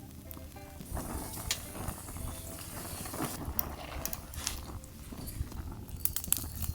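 Small clicks, knocks and scraping of things being handled, scattered irregularly, over quiet background music.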